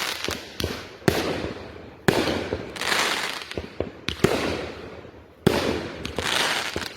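Consumer aerial fireworks going off: a run of sharp bangs one to one and a half seconds apart, each followed by a spreading crackle that swells and fades.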